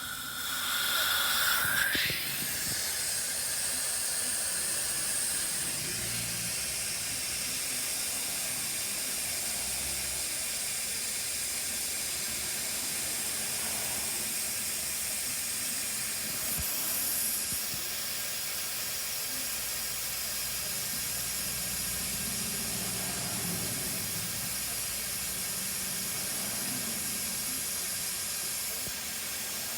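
Compressed air hissing out of a Hitachi EC1443H high-pressure air compressor: a steady hiss that starts suddenly, with a brief sliding whistle in the first two seconds.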